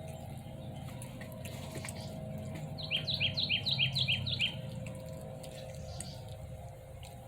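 A bird gives a quick run of about seven short, high, downward-slurred chirps lasting just over a second, about three seconds in, over a steady low hum.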